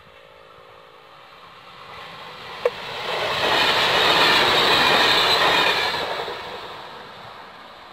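Electric multiple unit passenger train passing at speed: its rolling noise swells as it approaches, is loudest as it goes by close, then fades away. A single sharp click sounds just before it draws level.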